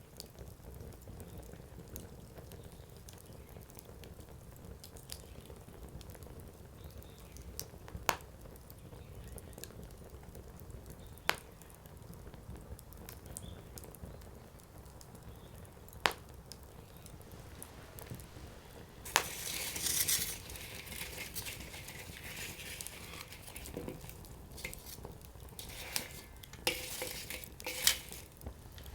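Firewood burning in an open campfire, crackling steadily with a sharp pop every few seconds. About two-thirds of the way through there is a few seconds of hissing, quick crackling, and near the end a run of several pops close together.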